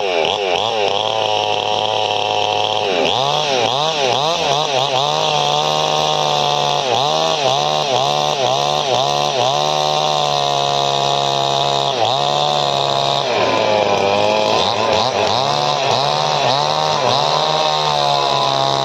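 Two-stroke chainsaw engine revving hard, the throttle blipped again and again so the pitch dips and climbs back, with stretches held at full revs.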